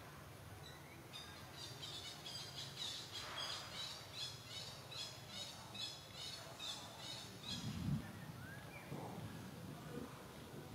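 A bird calling in a quick run of short, high chirps, about three a second, for several seconds. A low thump follows near the end.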